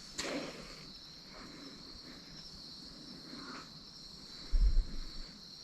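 Insects chirring steadily in a high, even drone, with a few soft short noises and one loud low thump about four and a half seconds in.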